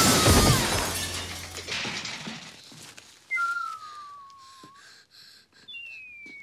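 Window glass shattering, with a low thud and breaking glass dying away over about two seconds. Two thin whistles follow, each falling slowly in pitch.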